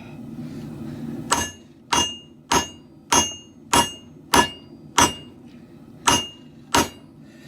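Hammer blows on hot katana blade steel being forged: nine sharp metallic strikes with a brief high ring, about one every 0.6 s with one longer pause partway, as the steel is drawn out thinner.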